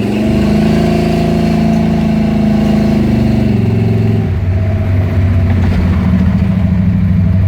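Stage-1 Buick 455 V8 with a TA290-08H camshaft, heard from inside the car, pulling up in revs and holding there for about three and a half seconds. About four seconds in the revs drop to a lower, steady run.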